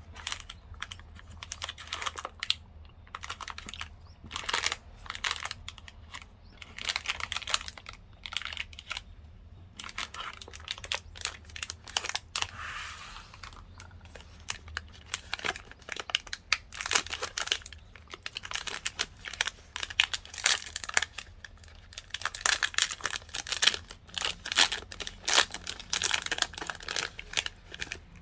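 Chocolate bar wrappers crinkling and tearing as they are handled and opened, a dense run of irregular crackles and clicks with short pauses.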